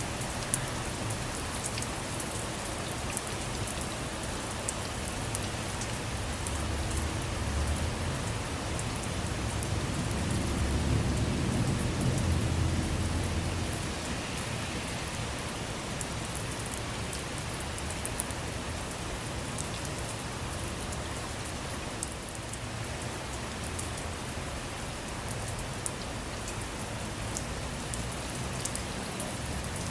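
Steady rain pattering on a vehicle's roof and windows, with scattered sharper drop ticks. A low rumble of distant thunder swells in the middle and fades away.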